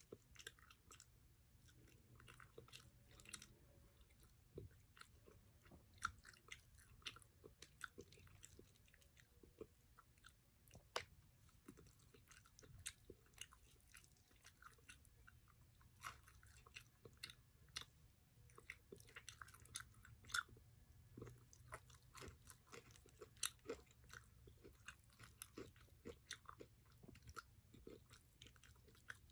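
Faint close-up chewing of Jollibee Chickenjoy fried chicken as the meat is picked clean off the bone, a dense, irregular run of small clicks and smacks.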